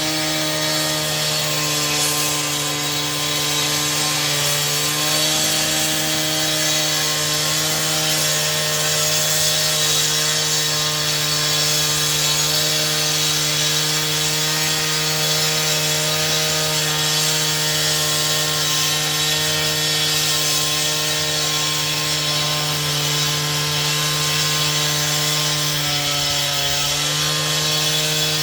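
A power saw running steadily through a long cut: a constant motor hum over the hiss of the blade, with a brief dip in pitch near the end.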